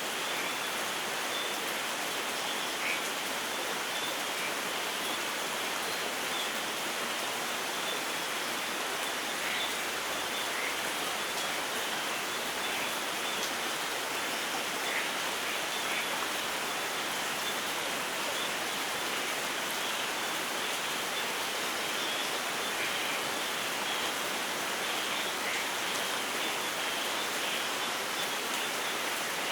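Steady light rain falling, an even unbroken hiss with a few faint drip-like ticks scattered through it.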